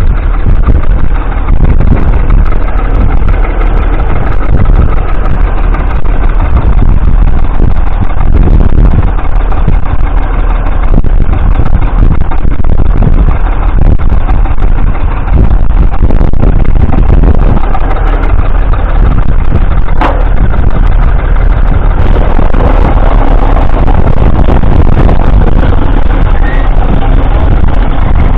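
1947 Fordson Model N tractor's 4.4-litre four-cylinder petrol/TVO engine running steadily.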